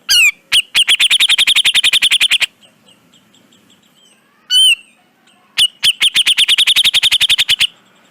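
Cucak jenggot (brown-cheeked bulbul) singing: a sharp slurred note, then a fast rattling run of about ten notes a second lasting some two seconds, given twice.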